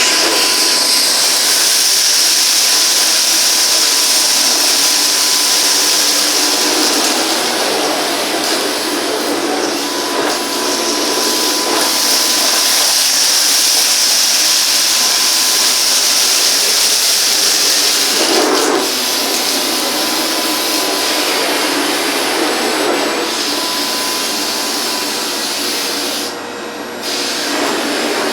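Bosch Series 2 BGC05AAA2 bagless vacuum cleaner running steadily, a loud airy hiss with a thin whine, the sound shifting now and then as the nozzle moves. It dips briefly near the end.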